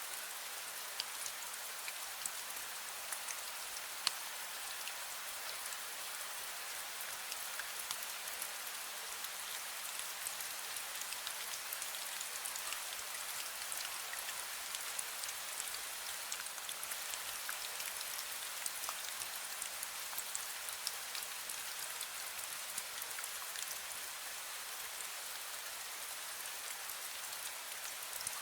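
Steady fine rain, an even hiss with many small scattered drop ticks, and one sharper tick about four seconds in.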